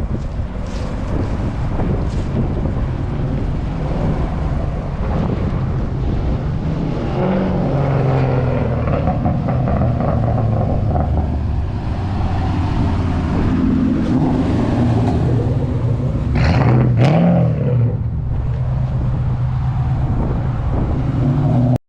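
Car engines running close by, with one revving briefly about three-quarters of the way through.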